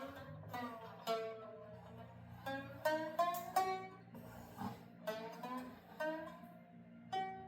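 Plucked zither-type string instrument played as a slow run of single notes, about two a second, each ringing and fading. Several notes slide down in pitch just after the pluck, over a steady low ringing of lower strings.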